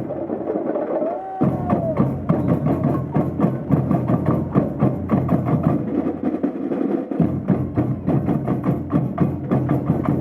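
Samba bateria drumming: dense, driving percussion with fast repeated strikes. The deep bass drums drop out briefly near the start and again around six seconds in, and a short gliding pitch rises and falls about a second in.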